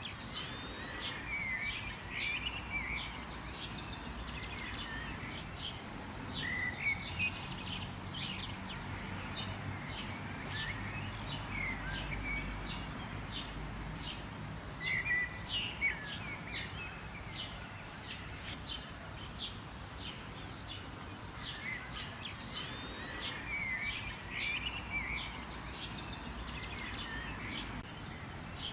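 Several birds chirping and twittering, many short quick notes and brief warbled phrases overlapping throughout, over a faint steady background hiss.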